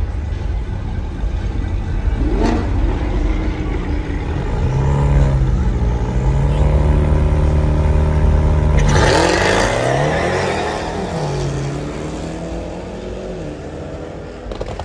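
Two cars launching side by side down a drag strip: engines held at steady revs on the line, then a sudden loud surge of acceleration with the revs rising and dropping through gear changes, fading as they pull away.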